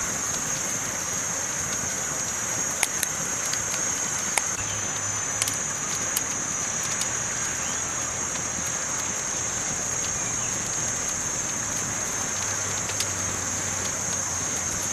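Campfire burning: a steady hiss with a few sharp crackles and pops scattered through it.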